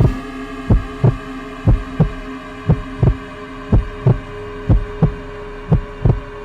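Heartbeat sound effect: slow, low double thumps, lub-dub, about once a second, over a steady eerie droning hum used for suspense.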